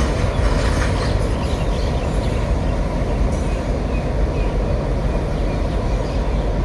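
Train rolling past on the rails, a steady low rumble that stays level throughout.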